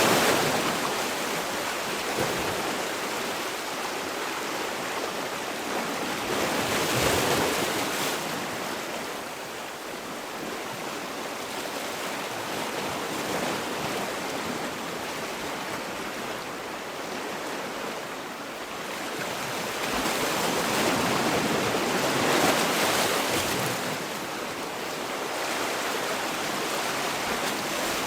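Sea waves washing onto a shore, a steady wash of surf that swells and ebbs, with louder surges about a quarter of the way in and again about two-thirds through.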